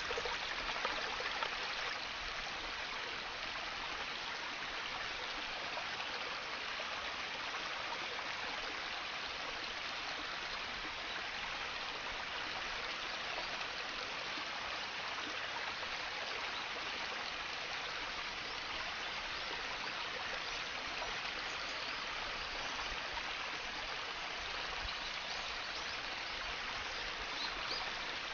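Water running steadily down the small streams of a rainforest paludarium, a continuous even trickling rush.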